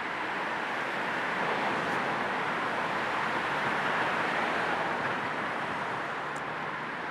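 Steady road noise of a moving car, blended with a low white-noise hiss.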